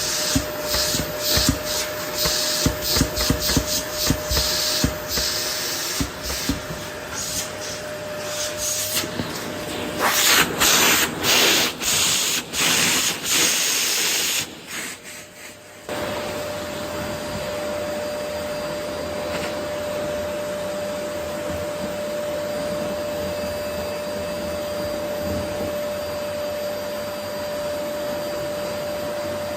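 Vacuum cleaner running on a wooden floor with a steady whine. For the first half, irregular rattling and surging comes from the nozzle as it pulls up rose petals. The sound drops briefly about halfway, then settles into an even, steady run.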